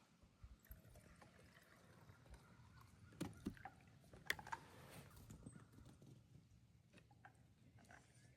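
Near silence, with a few faint knocks and clicks about halfway through.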